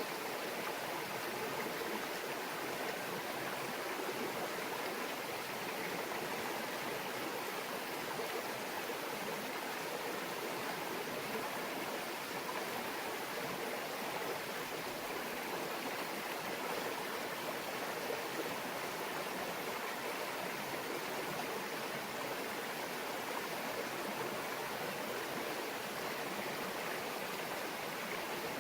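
Small stream babbling over stones, a steady rush of running water.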